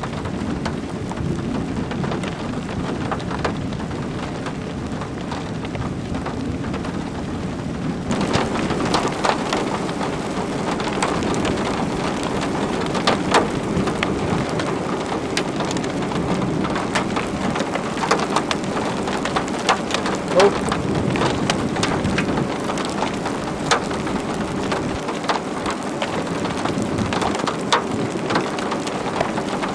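Rain falling steadily, with individual raindrops ticking sharply and often close by from about eight seconds in.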